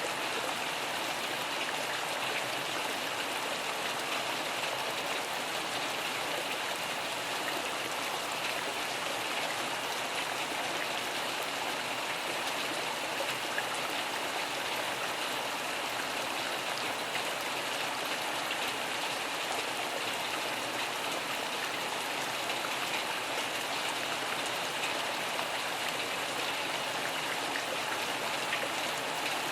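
Steady rain falling: an even hiss with fine drop patter, unchanging throughout.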